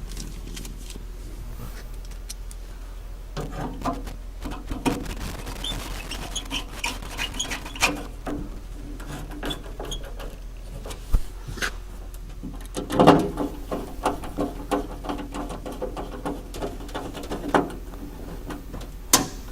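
Hand work on a truck door: scattered clicks, knocks and rustling of parts being handled and fitted, over a steady low hum, with a cluster of louder knocks about two-thirds through and a sharp click near the end.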